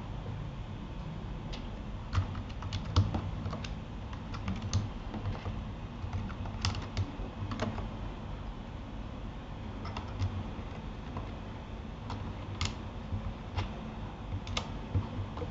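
Typing on a Keychron K8 mechanical keyboard fitted with Gateron Aliaz silent tactile switches: scattered keystrokes at an uneven pace, a few in quick runs with pauses between.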